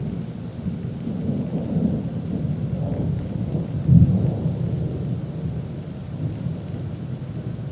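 Thunder rumbling low and continuously, with a sharper, louder peak about four seconds in.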